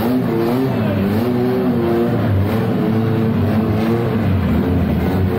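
Chevette drag car's engine revving, its pitch rising and falling in repeated blips and held steadier for a moment past the middle.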